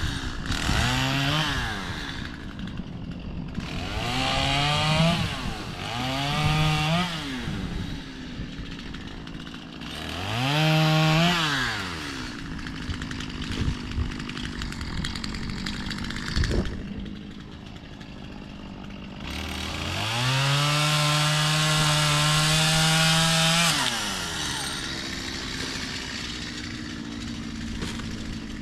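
Gas chainsaw revved up in short bursts and dropping back to idle between them, then held at full throttle for about four seconds, cutting crepe myrtle wood.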